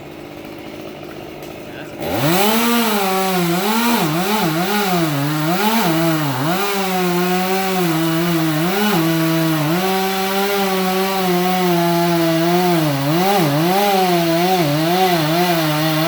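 An engine starts revving about two seconds in, after a quieter steady hum, then keeps revving up and down irregularly, at times holding a steady pitch for a second or two.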